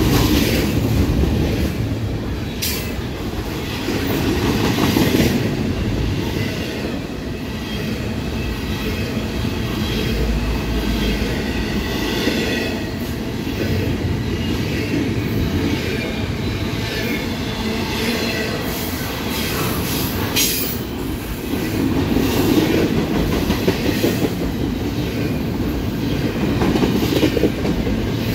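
Double-stack container well cars of a freight train rolling past close by: a steady rumble of steel wheels on rail with a thin high squeal that comes and goes, and an occasional sharp click.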